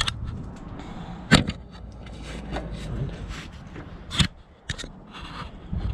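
Several sharp knocks from hand work on a car, the loudest about a second in, with faint scraping between them.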